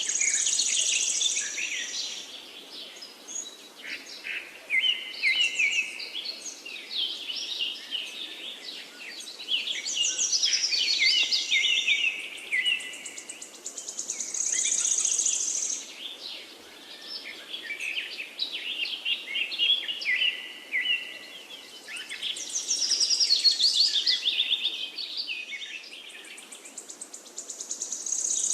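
A chorus of forest songbirds singing over one another, with many quick chirps and warbling trills. A high, buzzy trill rises out of the chorus several times.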